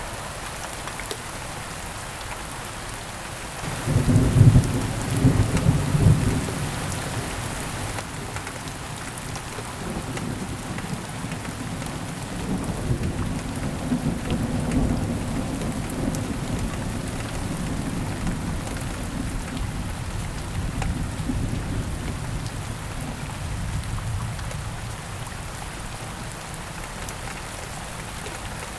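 Steady rain falling, with a sharp clap of thunder about four seconds in and a long low rumble of thunder rolling on and slowly fading.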